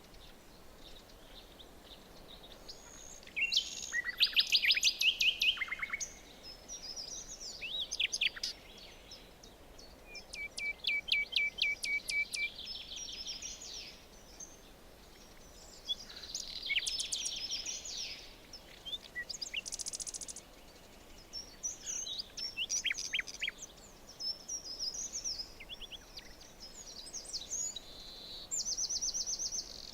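Several songbirds singing in a forest: a series of chirps, quick down-sweeping notes and trills, including a fast, even trill about a third of the way in, over a faint steady background hiss.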